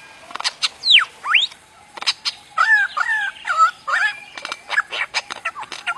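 A songbird singing a varied imitative song: sharp clicks, a whistle that swoops down and back up about a second in, then a run of short repeated two-note phrases mixed with more clicks.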